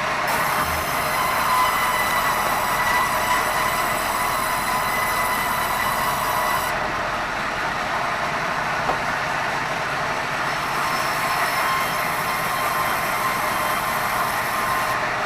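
Sawmill band saw cutting red meranti: a steady, loud hissing whine with ringing tones from the blade. The highest part of the sound drops away about seven seconds in and comes back a few seconds later.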